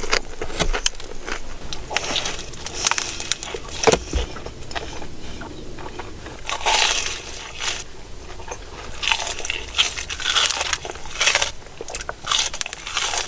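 Bites and chewing of crispy fried chicken, with loud crunches of the fried crust coming at irregular intervals between quieter chewing.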